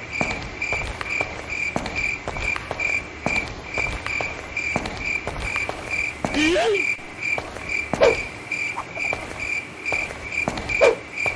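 Insect-like chirping: one high chirp repeated evenly, about three to four times a second, with scattered sharp clicks and a few brief voice sounds.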